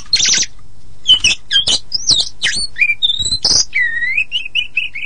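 Oriental magpie-robin of the pied 'kacer poci' form singing a fast, varied song of sweeping whistles, harsh buzzy notes and short chips, over a low steady hum.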